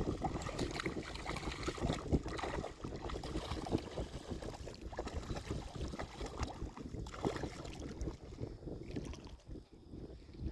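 Wind rumbling on the microphone over water sloshing and splashing in the shallows, uneven throughout and easing briefly near the end.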